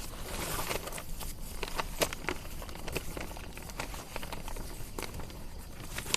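Irregular cracking and snapping of dry sticks and twigs, with rustling of dry leaf litter, as branches are handled and trodden on.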